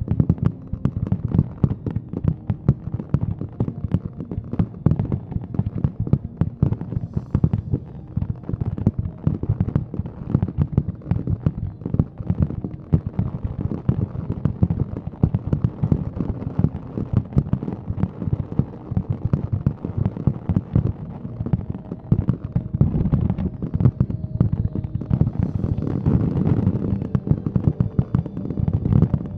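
Fireworks display in a dense, continuous volley: rapid, overlapping booms and crackles of aerial shells bursting, with no pause.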